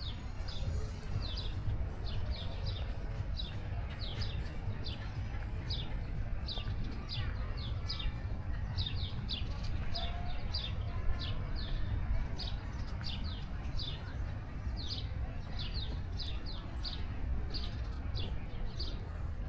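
Small birds chirping, a string of short, high chirps several times a second, over a steady low rumble of outdoor background noise.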